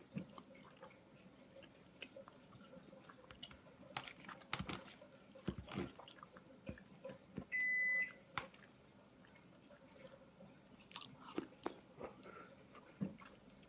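A person chewing a mouthful of chicken fettuccine pasta, with soft, irregular wet mouth clicks. A single high electronic beep lasting under a second sounds about halfway through.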